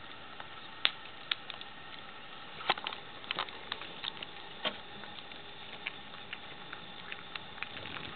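A cat chewing raw chicken on the bone: irregular sharp crunches and clicks as its teeth work the bone, over a steady background hiss.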